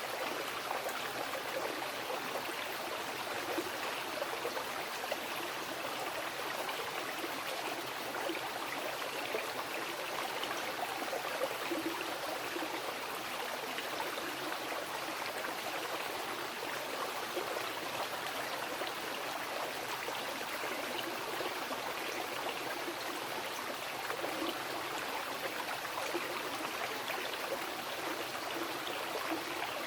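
Mountain river rushing over rocks: a steady, even water noise with no breaks.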